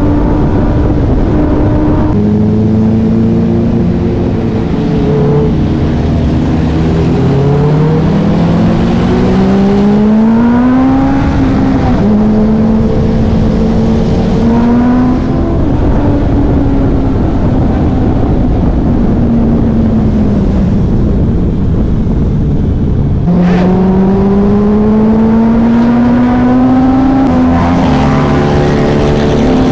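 Honda CBR650 inline-four motorcycle engine accelerating hard: its pitch climbs through the revs, drops back at each gear change and climbs again, several times over, with a long easing off in the middle.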